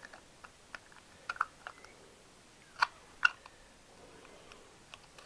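A few small, sharp clicks and taps of metal parts being handled and fitted, as an ignition rotor and stator go back in; the two loudest come close together about three seconds in.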